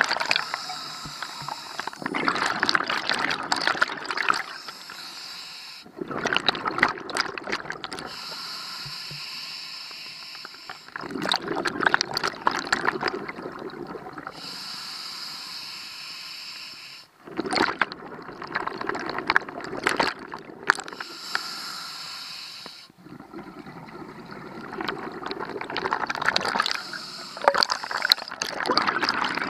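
A scuba diver breathing underwater through a regulator. Loud bursts of exhaled bubbles come every five seconds or so, with a quieter, steadier hiss between them.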